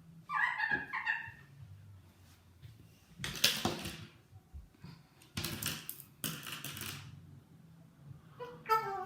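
Eclectus parrot vocalizing: short pitched chattering calls about half a second in, three harsh noisy squawks in the middle, and a falling-pitched call near the end.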